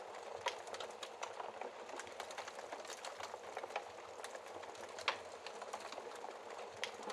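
Wood fire crackling steadily in a fireplace, with a soft continuous hiss of burning and many small irregular snaps, and sharper pops about half a second in and again about five seconds in.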